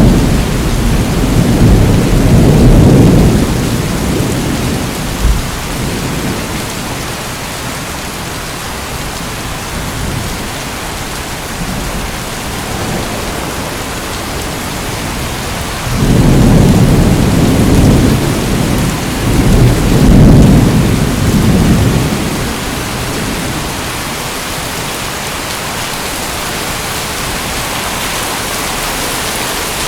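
Steady heavy rain, an even hiss, with two long rolls of thunder: one fading over the first few seconds and another rumbling from about the middle to two-thirds of the way through.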